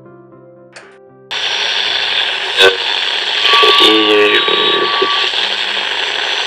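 Vintage General Electric tube AM radio being tuned across the band. About a second in, loud static hiss comes up suddenly. There is a click, then a steady whistle and a brief snatch of voice as the dial passes stations.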